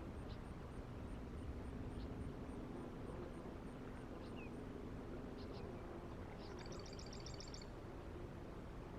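Outdoor ambience with a steady background rush and a low hum, broken by short high chirps from birds. Near the end comes a rapid series of about ten high, pitched bird notes.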